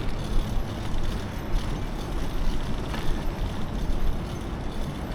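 Wind buffeting the microphone of a camera carried on a moving bicycle: a steady, uneven low rumble with no clear engine note.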